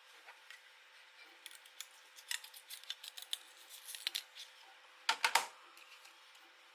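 Light plastic clicks and snips of small 3D-printed model parts being worked by hand, with a cluster of about three louder snaps about five seconds in.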